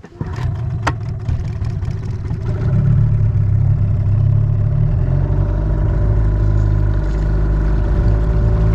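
Motorboat engine running steadily. It comes in abruptly, with a couple of clicks in the first second, and gets louder about two and a half seconds in.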